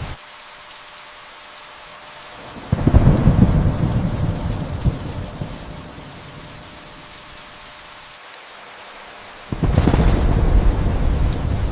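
Steady rain with two rolls of thunder: the first breaks about three seconds in and fades over a few seconds, the second starts near the end.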